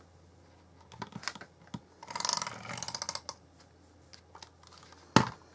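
Handheld adhesive tape runner drawn along card, giving a rasping run of fine rapid clicks about two seconds in, with a few lighter clicks before it. A single sharp click near the end is the loudest sound.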